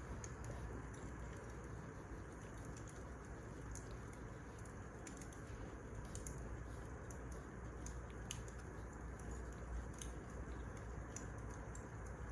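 Wood fire crackling: irregular sharp pops and ticks over a steady low rumble and hiss.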